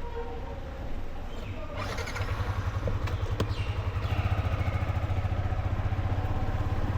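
Motorcycle engine running, a steady low pulse that gets louder from about two seconds in as the bike moves off.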